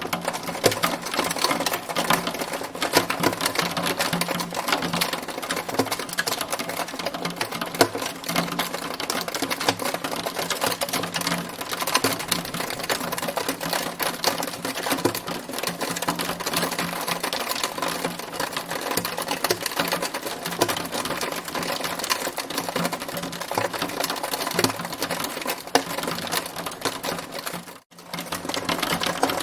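Hailstones pelting down in a dense, unbroken clatter of rapid hard taps. The sound cuts out for an instant near the end.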